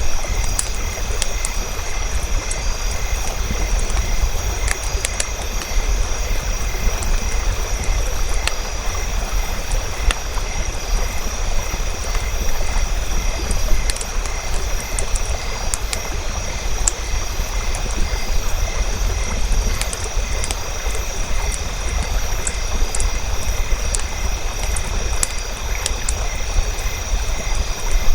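Campfire burning: a steady low rushing roar with scattered small crackles and pops throughout.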